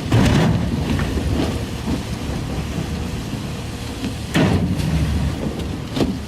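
Storm waves crashing against a ship, over a steady rumble of wind and spray, with heavy crashes near the start, about four and a half seconds in and near the end.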